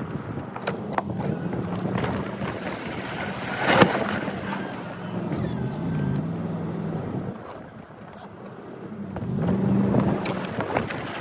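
Plow truck engine running, its pitch rising and falling as it works, with a few sharp knocks; the loudest knock comes about four seconds in.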